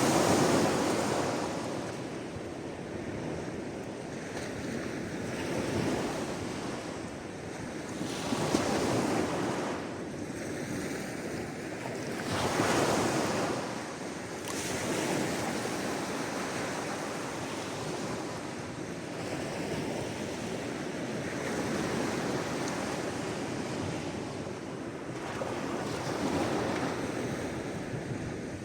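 Sea waves breaking and washing in: a continuous rushing that swells and ebbs every few seconds, with the strongest surges right at the start, about eight seconds in, and about thirteen seconds in.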